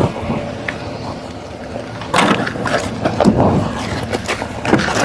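Steady road and engine noise of a vehicle driving at speed in a pursuit, with several louder sudden rushes of noise.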